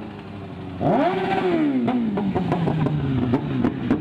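A motorcycle engine revs up suddenly about a second in, then its pitch slowly falls as it keeps running, with a string of sharp clicks or pops over it.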